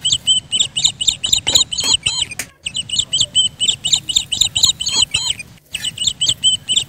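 Birdsong: a phrase of quick, high chirps, repeated three times with abrupt breaks between the repeats, as if a recording were looped.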